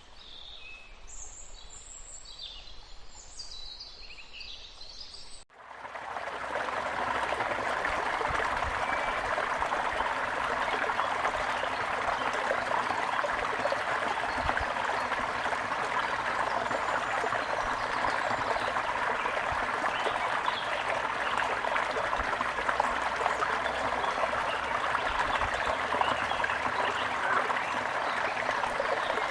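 Small birds chirping over a faint background hiss, then, about five seconds in, an abrupt switch to the steady rush of water falling and splashing from a waterfall.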